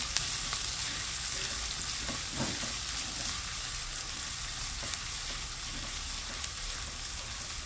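Sliced shallots, garlic and ginger sizzling steadily in hot oil in a nonstick wok, sautéed until fragrant, while a spatula stirs them with a few faint scrapes and taps against the pan.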